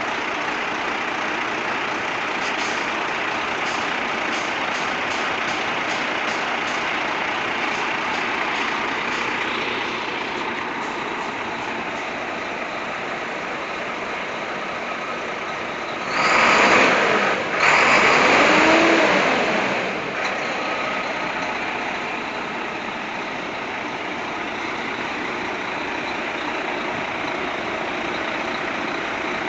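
Renault Premium 440 truck's diesel engine running steadily, with a loud rushing noise in two bursts about sixteen seconds in, lasting some four seconds in all.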